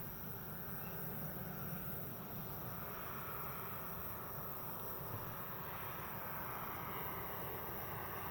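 Distant jet noise of an approaching ANA Boeing 737-800's CFM56 turbofans, a rushing sound that grows steadily louder from about three seconds in. A steady insect buzz runs under it.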